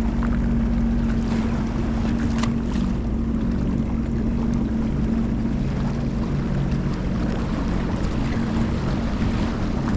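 Sea-Doo jet ski engine idling with a steady low hum, with wind buffeting the microphone.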